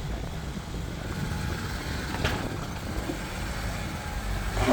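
Jeep engine running low and steady while crawling over rock, with a single short knock about two seconds in and a brief rise in level right at the end.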